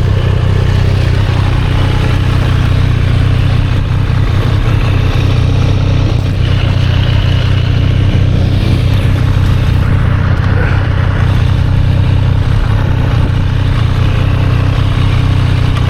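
Triumph Street Triple 765 R's inline three-cylinder engine running steadily at an even, low speed, with no clear revving.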